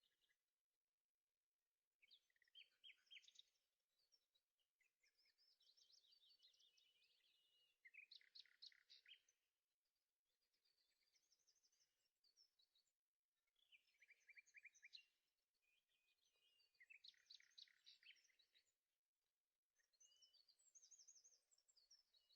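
Faint birdsong: one songbird gives short phrases of rapid chirps and trills, about one every three seconds.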